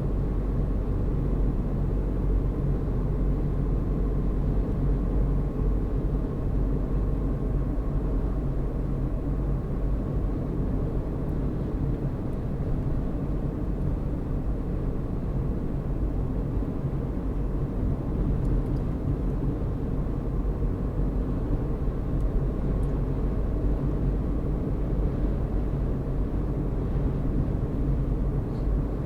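Car driving at a steady speed: a steady low rumble of engine and road noise that does not change.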